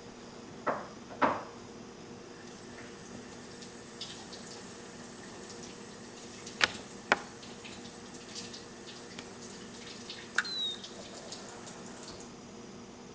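A few sharp clicks and short knocks, with faint ticking in between, over a steady electrical hum.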